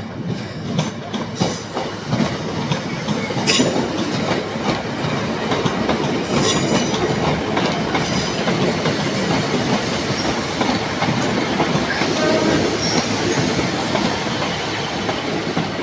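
Train pulling into a station, wheels clicking over rail joints under a steady rumble that builds over the first few seconds, with a couple of brief high-pitched squeals.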